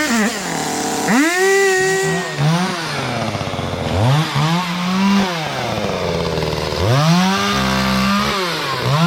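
Two-stroke chainsaw revving up and dropping back to idle in repeated bursts, about three times, with the engine held at high revs for a second or so each time, as when it is cutting through branches.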